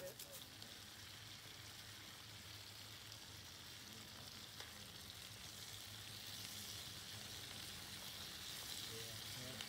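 Food sizzling in a pan over an open campfire: a soft, steady frying hiss.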